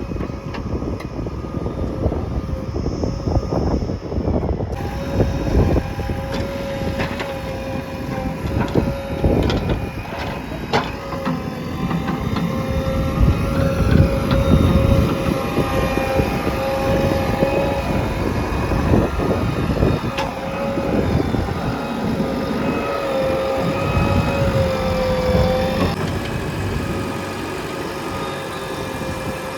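Heavy diesel machinery running under working load, with a steady whine over a rough rumble that rises and falls.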